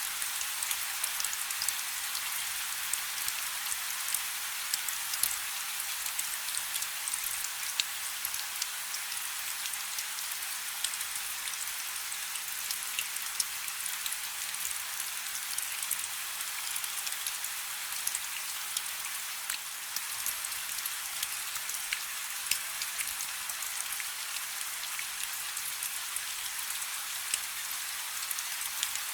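Steady rain falling on a river: an even hiss dotted with many separate drops ticking.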